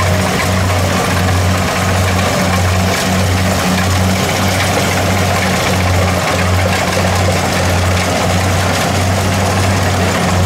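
Kubota DC70 rice combine harvester's diesel engine and machinery running steadily, with a low hum that swells and fades in a regular beat.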